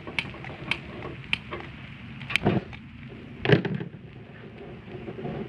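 Beaten egg sizzling on a hot flat-top griddle. A few sharp ticks come about half a second apart, then two louder clunks in the middle, the second the loudest, as a tool is handled and set down.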